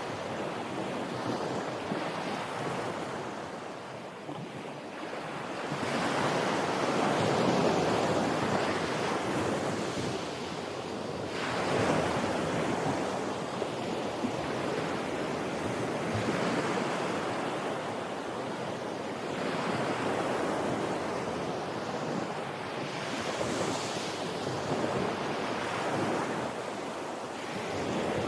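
Ocean waves breaking and washing on the shore, the surf swelling and ebbing every few seconds, with some wind on the microphone.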